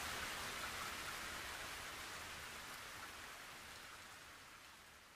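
Faint, even rain-like hiss at the very end of the track, fading steadily and dying away just after the end.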